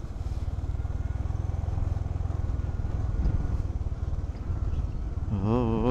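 Honda H'ness CB350's single-cylinder engine running steadily on the move. Near the end, a wavering pitched sound starts over it.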